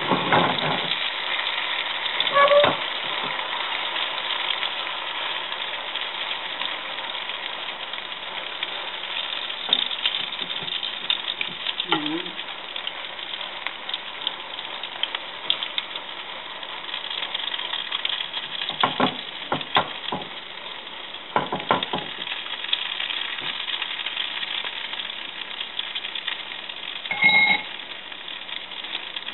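An egg-and-greens omelette sizzling steadily in oil in a cast-iron skillet over low heat, with a spoon stirring and spreading the mixture in the pan. A few short knocks come about two-thirds of the way through.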